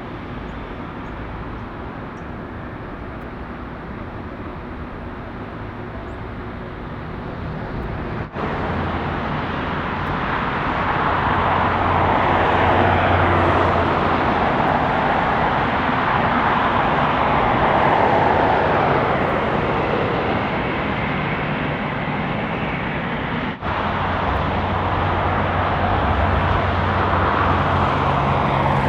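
Jet engines of a Boeing 747-8 freighter, four GEnx-2B turbofans, on arrival. The noise swells about ten seconds in and holds loud with a slow sweeping whoosh, and is broken twice by brief dropouts.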